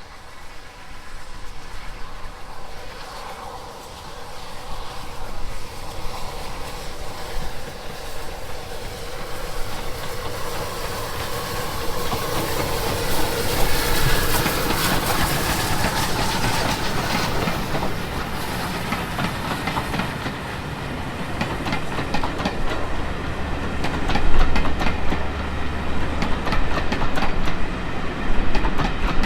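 A train approaching and going past, growing louder through the first half. In the second half a low rumble and rapid clickety-clack of wheels over rail joints come in as the carriages pass.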